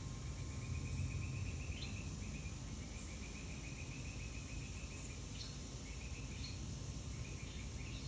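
A small bird singing a rapid trill of quickly repeated high notes in several runs of one to two seconds, each rising slightly in pitch, with a few short rising chirps between them. A low steady rumble lies underneath.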